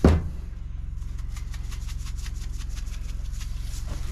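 A steady low mechanical hum, with a single loud knock right at the start and faint light rustling and clicking over it.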